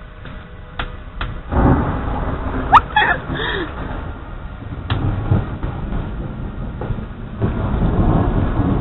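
Thunder rumbling after a lightning flash, rising about a second and a half in, easing off, then swelling again near the end, with a sharp click about three seconds in.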